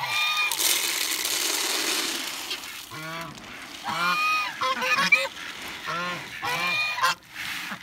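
Domestic geese honking, several short calls one after another in the second half. Before that, a steady rushing noise for about two seconds.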